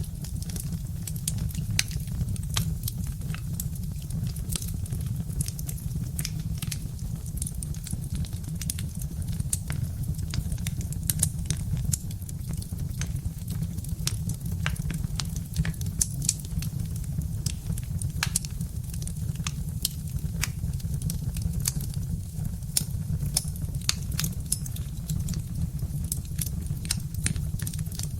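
Birch-wood fire crackling: many irregular sharp pops and snaps over a steady low rumble.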